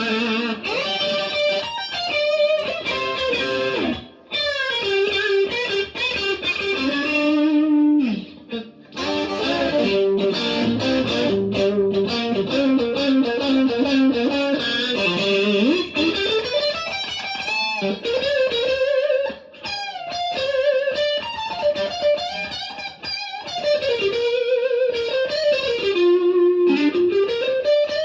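Stratocaster-style electric guitar played through a Marshall DSL40C valve amp: single-note lead lines with string bends and vibrato, broken by a few short pauses.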